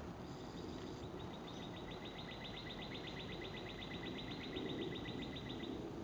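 A bird's high, even trill of about ten notes a second, lasting about five and a half seconds, over a steady outdoor background hiss.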